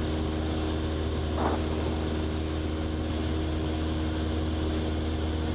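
Cessna 172S's four-cylinder piston engine and propeller droning steadily in level cruise, heard inside the cabin.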